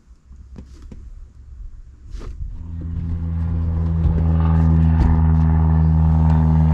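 A few faint clicks, then a steady engine hum that fades in about two and a half seconds in, grows louder and holds at an even pitch.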